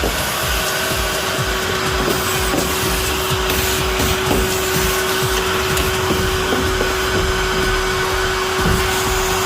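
An electric motor-driven tool running steadily with a constant noisy whir, joined by a steady hum about half a second in.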